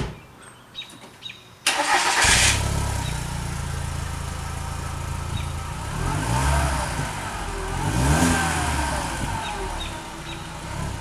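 Volkswagen Jetta engine starting through a newly fitted Megan Racing catback exhaust, catching about two seconds in and then idling, with a couple of short revs in the second half.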